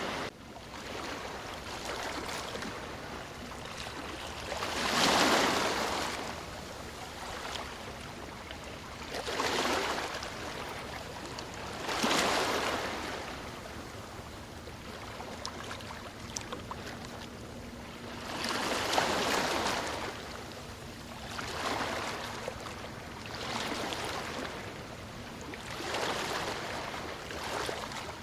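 Ocean surf: waves breaking and washing ashore, each one swelling up and fading away, about seven surges spaced a few seconds apart.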